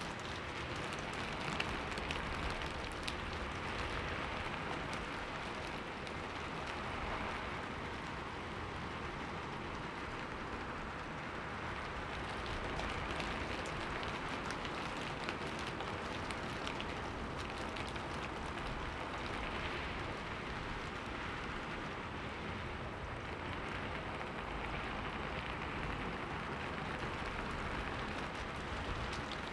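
Steady rain falling on a window pane, a constant hiss with scattered ticks of single drops.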